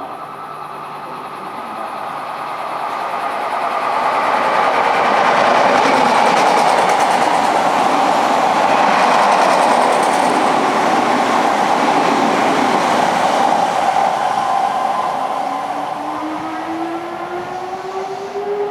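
Odakyu 50000 series VSE electric express train passing through a station without stopping, with the rumble and clatter of its wheels on the rails. The sound builds over the first few seconds, is loudest in the middle and then slowly fades. A rising whine begins near the end.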